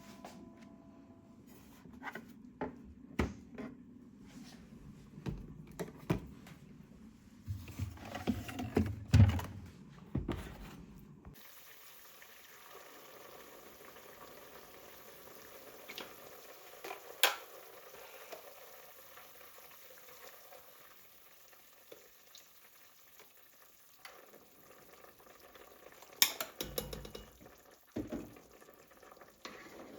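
Kitchen work: scattered knocks and clinks of utensils and dishes, then, from about 11 seconds in, a steady sizzle of food frying in a pan, with a few sharp clicks and a cluster of knocks near the end.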